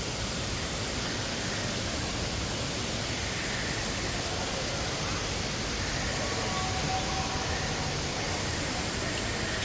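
Steady rushing hiss of falling water from a waterfall.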